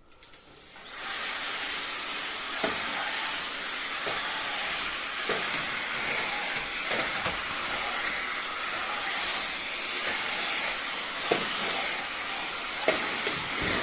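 Bosch Unlimited Serie 6 cordless stick vacuum switching on, its motor whining up to speed within the first second, then running with a steady high-pitched hiss. Scattered sharp clicks sound over it.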